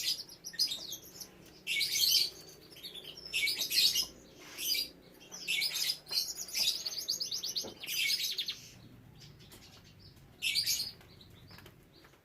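Domestic canary singing: about seven short bursts of rapid, high trilled notes, separated by brief pauses.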